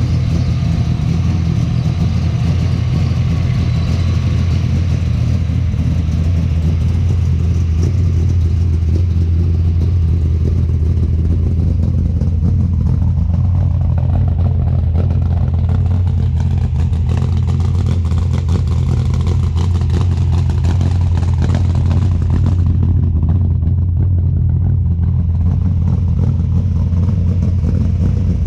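632 cubic-inch big-block V8 of a pro street Chevelle running at a steady, loud idle after a cold start.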